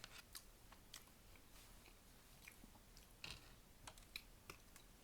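Faint close-up chewing: soft wet clicks and smacks of a mouth eating food, a little louder just past the middle.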